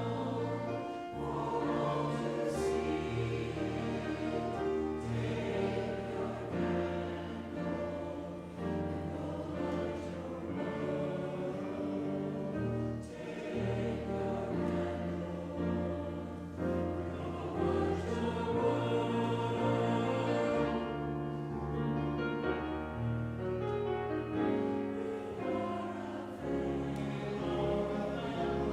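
Choir singing with instrumental accompaniment, held bass notes moving beneath the voices.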